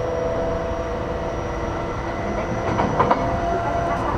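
Inside a JR East E233-8000 series electric train running along the track, heard from the passenger cabin. A steady low rumble runs under a few level electric motor tones, and two sharp rail clacks come about three seconds in.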